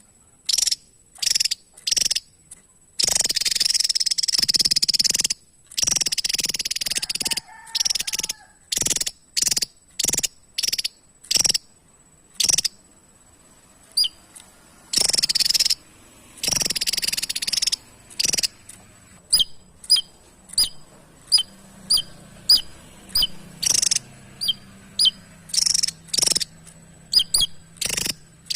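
Javan tesia singing: a series of loud, short, sharp high-pitched notes, with several longer harsh phrases of one to two seconds in the first half, then clipped chirps in quicker succession in the second half.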